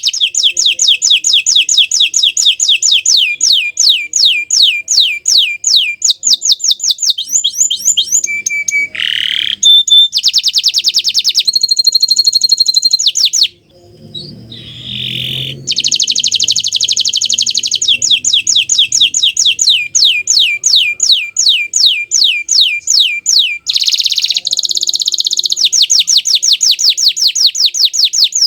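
Domestic canary singing a long song of fast trills, rapid runs of repeated falling notes, changing tour every few seconds, with a short break about halfway through.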